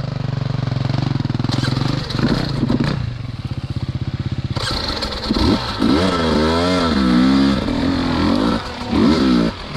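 Dirt bike engine running at low revs, then revved up and down several times from about five seconds in, its pitch rising and falling with each blip of the throttle.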